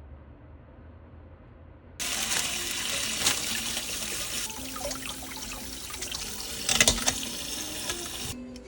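Tap water running into a kitchen sink over broccoli being rinsed, with a few knocks as the broccoli is handled. The water starts suddenly about two seconds in and stops abruptly near the end.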